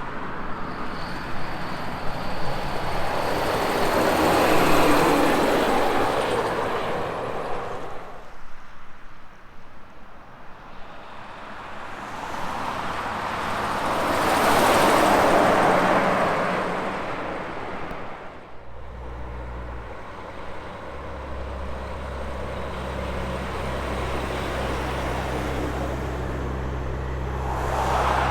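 Highway traffic passing close by: two vehicles go past, each swelling up to a peak and fading away, the first about five seconds in and the second about fifteen. From about two-thirds of the way through, a steady low engine drone holds, and another vehicle comes up near the end.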